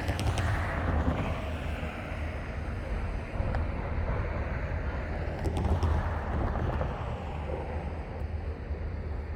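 Low, steady rumble of GP40-2 diesel-electric locomotives working as they pull a cut of freight cars, with wind buffeting the microphone and a few brief clicks.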